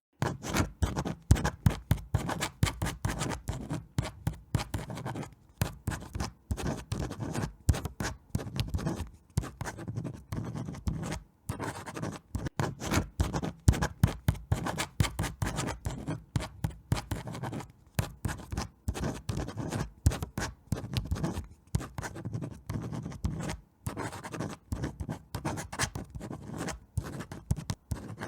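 Dense, irregular scratching and crackling, many sharp little noises a second with brief pauses between clusters.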